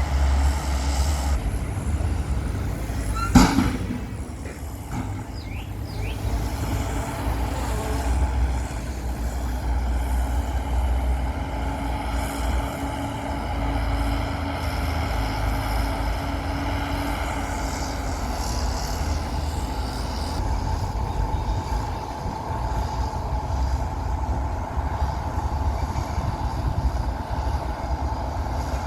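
Diesel engines of heavy earthmoving machines, a bulldozer and dump trucks, running steadily with a deep rumble. A single sharp knock stands out about three seconds in.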